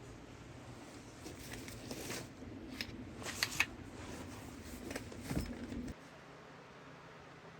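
A few light clicks and rustles of small objects being handled, the sharpest a little past the middle, with a soft thump near the end; then the sound cuts to a quiet steady hiss.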